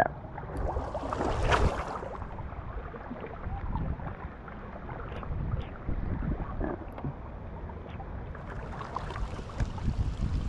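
Wind buffeting the microphone over lapping water, with one brief sharp sound about one and a half seconds in.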